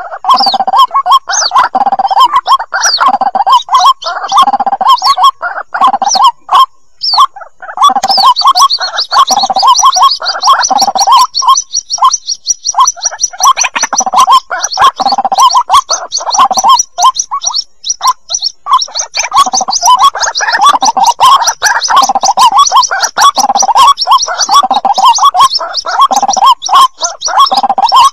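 White-breasted waterhen chicks calling: a fast, unbroken run of short repeated calls, several a second. A high, thin trill joins over them about eight seconds in. It is the chick-call recording used to lure the birds.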